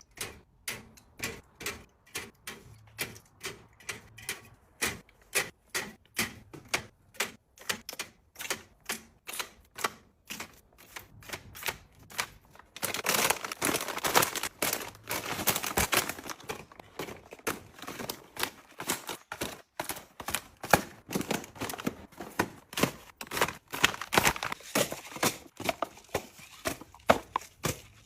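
A steady series of sharp taps, about two a second, giving way about halfway to busier, noisier clattering with louder knocks.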